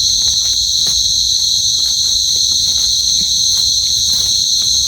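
A chorus of night insects such as crickets, giving a loud, continuous high-pitched trill that never breaks, with a few faint ticks beneath it.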